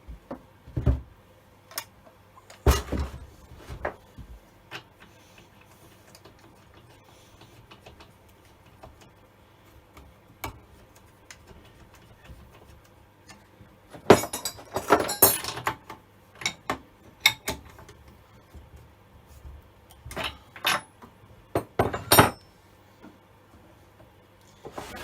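Scattered metallic clinks, clicks and knocks of parts and tools being handled during hands-on work on an old chainsaw, with a dense clatter about 14 seconds in and another burst of knocks a few seconds later.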